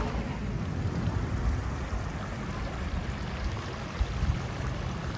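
Moorland stream rushing over rocks: a steady watery hiss with a rumble in the low end.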